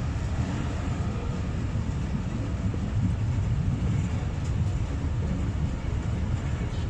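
Passenger train running on the track, heard from aboard: a steady low rumble of the coach's wheels and running gear.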